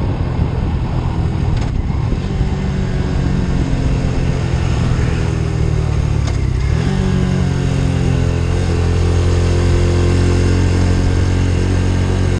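Motorcycle engine running steadily at a constant pace; its note steps up a little about seven seconds in and holds there.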